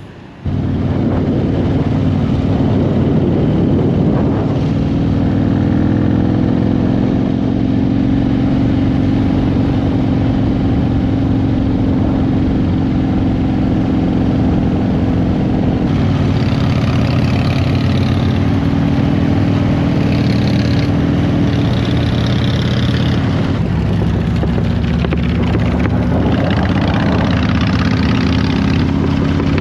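Motorcycle engine running steadily while riding. It cuts in abruptly about half a second in and holds an even pitch, which drops slightly about 23 seconds in.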